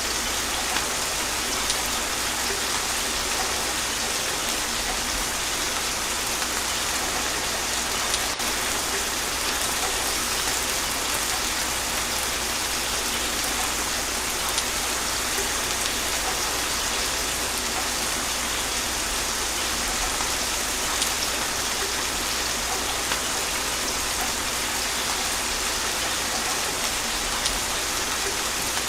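Steady gentle rain falling on a surface, an even hiss with scattered individual drops, and no thunder.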